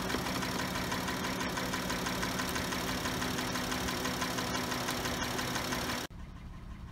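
Chrysler 3.6-litre V6 idling steadily while its 62TE six-speed automatic transmission is topped up after running low on fluid and cavitating; the transmission has gone nice and quiet. The sound drops abruptly to a quieter background about six seconds in.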